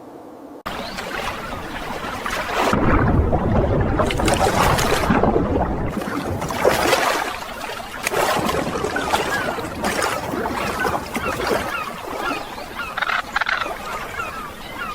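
Water sound, splashing and rushing, with a heavy surge early on. Through the second half come many short, quick rising chirps from some animal.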